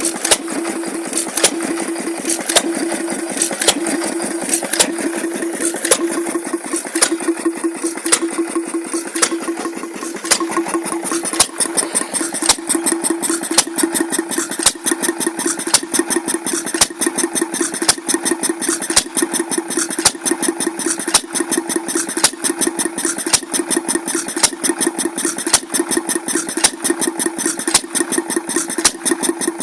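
Taylor model vacuum (flame-licker) engine running with a regular clicking beat over a steady hum. The beat quickens about a third of the way through and stays fast.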